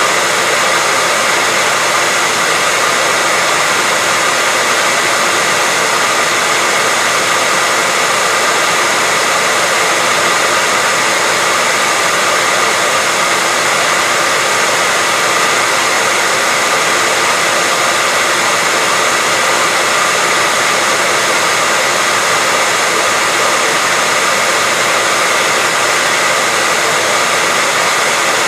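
Hairdryer blowing at a constant speed: a steady rush of air with a faint motor whine.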